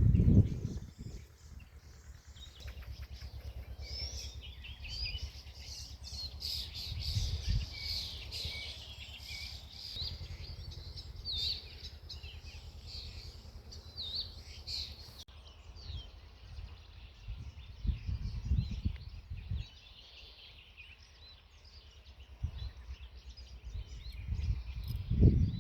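Several small birds chirping and singing, with quick high calls and short trills overlapping, busiest in the first half. Beneath them is a low rumble with a few dull thumps, near the start, about a third of the way in, and near the end.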